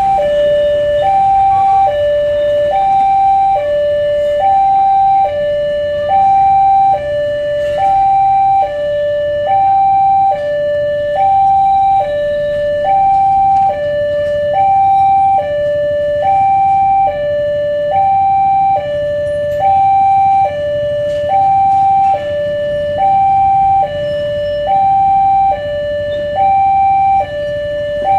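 Two-tone hi-lo siren sounding steadily, a higher and a lower note taking turns about every two-thirds of a second at an even level, over a low engine rumble.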